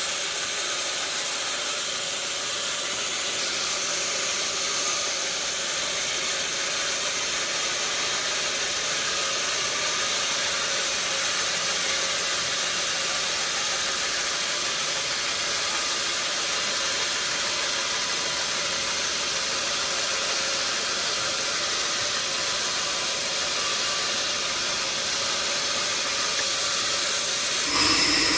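Sawmill machinery running steadily, an even hissing noise with a steady hum under it. Near the end it gets louder and changes pitch.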